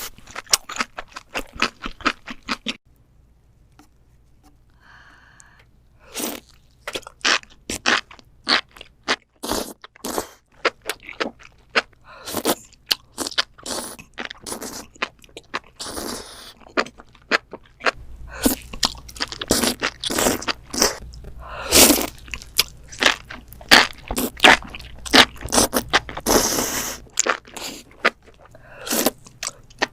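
Close-miked eating of crisp food: many sharp, irregular crunches and chewing, quieter for a few seconds near the start and denser in the second half.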